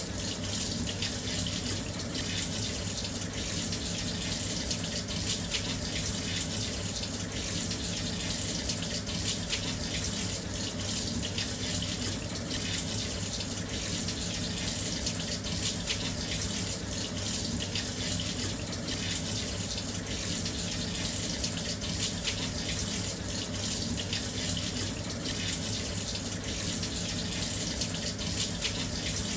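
Washing machine filling with water: a steady, continuous rush of water pouring into the drum.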